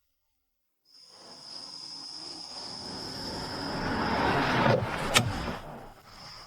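Steady high chirring of crickets, with a rush of noise that swells gradually and peaks about five seconds in before fading, and a single sharp click near the peak.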